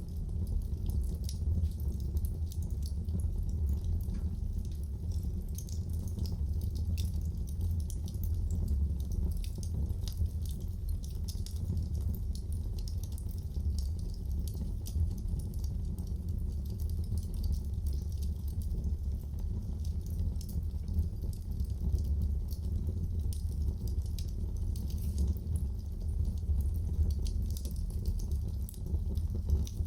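Wood fire in a fireplace crackling: many small, irregular pops and snaps over a steady low rumble of the burning.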